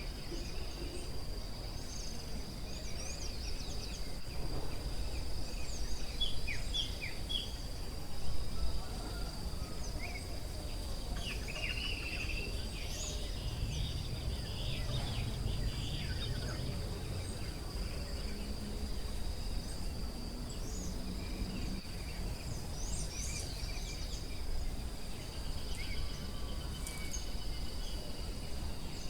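Forest ambience: a steady, high-pitched insect drone with many short bird chirps and calls scattered over it, above a low rumble.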